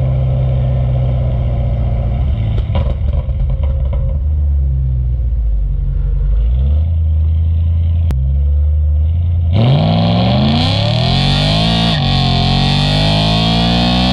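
BMW E92 M3's V8 engine running at a steady low drone while driving, its pitch stepping a couple of times. About ten seconds in, loud music with distorted electric guitar comes in suddenly over it.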